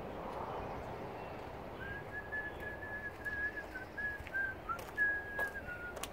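A person whistling idly, a run of short notes at nearly the same pitch with small dips, starting about two seconds in. A few sharp clicks near the end.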